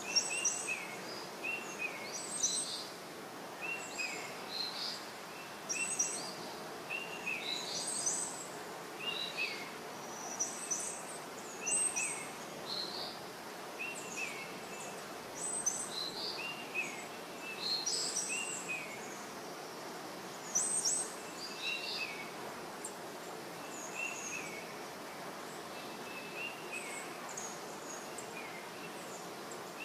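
Birds chirping over and over, short sharp notes about one every second, over a steady outdoor background hiss.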